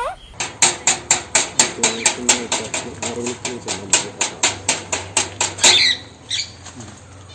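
Rapid, even tapping on a hard surface, about four knocks a second for some five seconds, then a short high squawk near the end.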